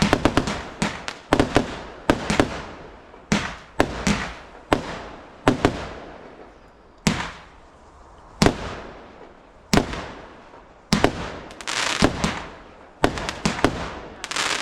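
Fireworks going off in an irregular string of sharp bangs, about one a second, each echoing away. The bangs crowd closer together with crackling in the last few seconds.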